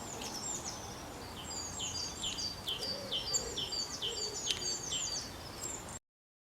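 Eurasian blue tit singing: a fast run of high, repeated notes that slide downward, several a second, with a few sharp clicks among them. The song cuts off suddenly near the end.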